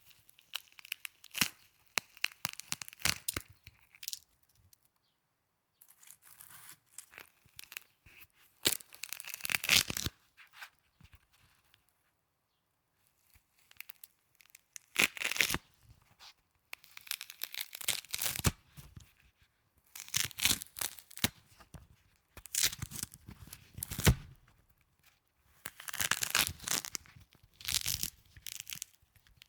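Snow being handled so that it crunches and crackles in short crackly bursts a second or two long, with brief silent pauses between them.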